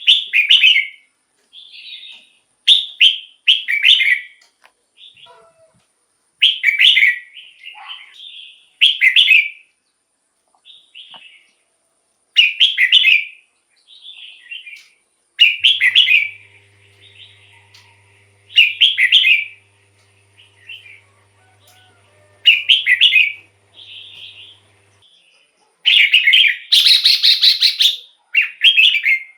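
Red-whiskered bulbul singing: short, loud whistled phrases repeated every few seconds, with softer notes between them and a longer, denser run of song near the end.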